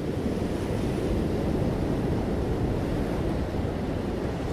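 Steady rushing noise, heaviest in the low end, fading in just before and holding even throughout.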